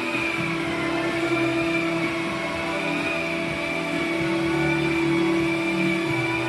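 Steady motor-like drone with a high, slowly wavering whine over a constant hum.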